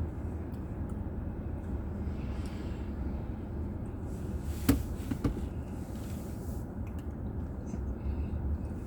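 Car driving, picked up by a dash camera inside the car: a steady low rumble of engine and tyres on the road. About halfway through there is one sharp click, followed by a couple of lighter ticks.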